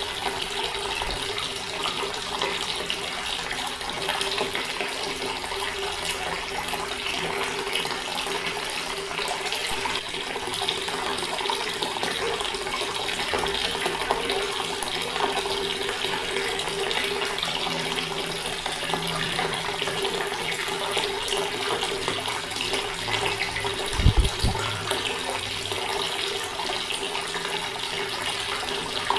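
Water tap running in a steady stream, with a faint steady hum beneath it. A brief low thump about 24 seconds in.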